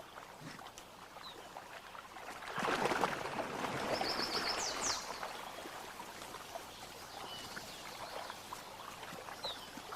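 Water splashing and churning as a wood bison and wolves struggle in a shallow lake. It is loudest from about two and a half to five seconds in, with a few short high squeaks in the middle.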